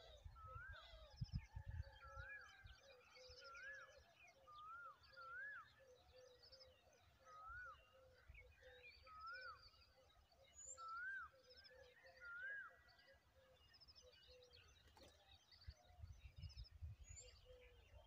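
Birds calling: a short note that rises then falls, repeated about once a second, over faint higher twittering. A low rumble comes and goes near the start and near the end.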